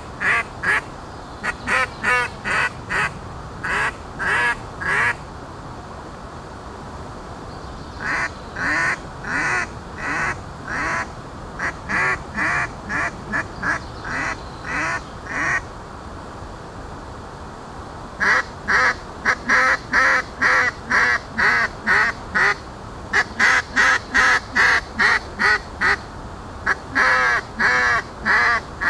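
Handmade S3P duck call blown in runs of quick, evenly spaced quacks, with pauses of two to three seconds between runs; the last run is the longest.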